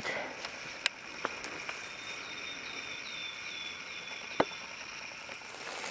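Quiet woodland background in which a bird sings a run of about six short, high notes a little over two seconds in. A few sharp snaps of dry twigs underfoot break in, the loudest about four seconds in.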